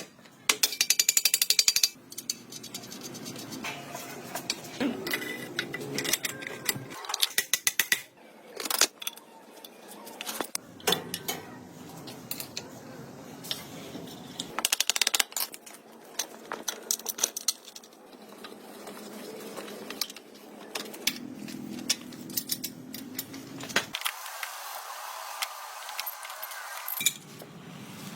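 Hand tools working on metal motorcycle parts: runs of rapid metallic clicks and clinks, several separate bursts with quieter handling sounds between them.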